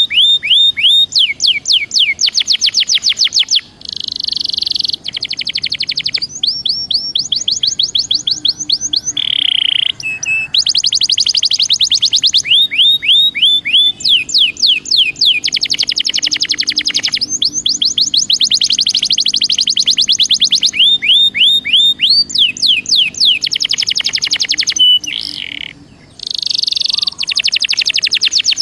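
Belgian canary singing a long, high-pitched song of rapid trills and rolls, with short pauses about 4 seconds in and near the end.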